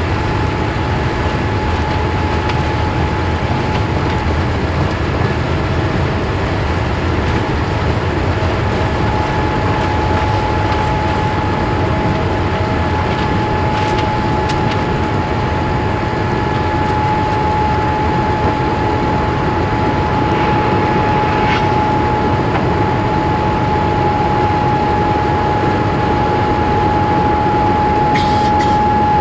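Cabin noise inside a Boeing 787-8 Dreamliner: a steady rumble and hiss with a constant high whine, growing slightly louder near the end.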